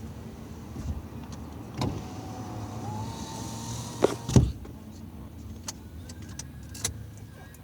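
A motor vehicle's steady low engine hum, with a thin whine that rises in pitch and then holds. Two loud knocks come about four seconds in.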